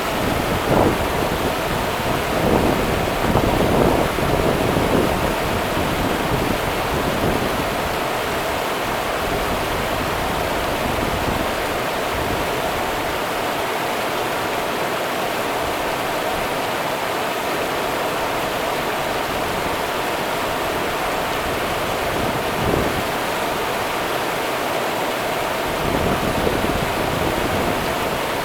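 Rio Grande river water running steadily, with a few brief louder splashy swells.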